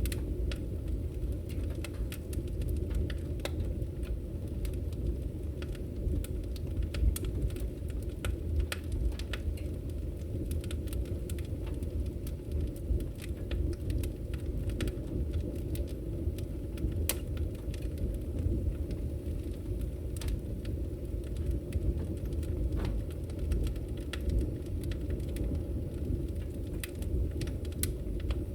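Firewood burning in a fire: a steady low rumble of the flames with many sharp crackles and pops.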